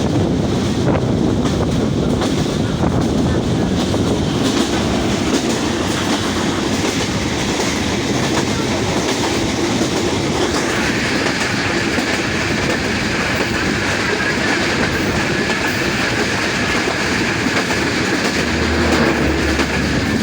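A train running past, its wheels clattering over the rail joints in a loud, steady rumble. About halfway through a higher, steady hiss joins it.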